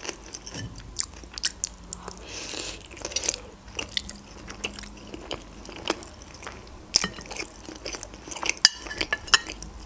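Close-miked chewing of steamed manti dumplings: soft, wet mouth sounds with irregular smacks and clicks, a few sharper ones about a second in, around three seconds in and about seven seconds in.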